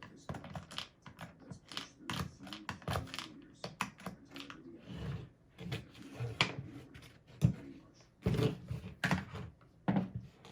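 Irregular clicks, taps and knocks of plastic and metal box-fan parts being handled during a blade swap, with a denser run of knocks near the end.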